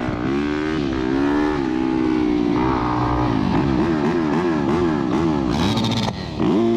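Dirt bike engine running with the throttle worked on and off, its pitch rising and falling over and over.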